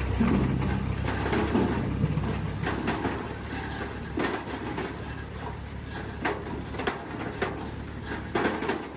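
A firewood processing machine running with a low drone, over irregular knocks and clunks of wood pieces being cut, split and dropped. The drone is strongest for the first few seconds.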